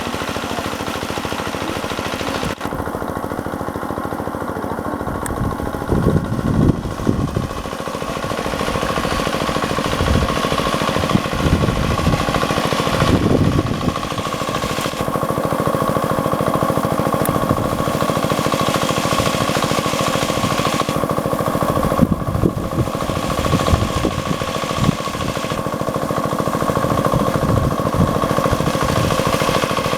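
Diesel engine water pump running steadily, pumping pond water, with a rapid knocking beat and a steady whine over it. A few louder rushes of noise come and go over it.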